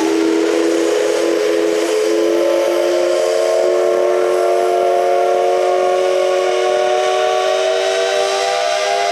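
Steam whistle of the C11 325 steam locomotive blowing one long, steady chord of several notes over a faint hiss of steam.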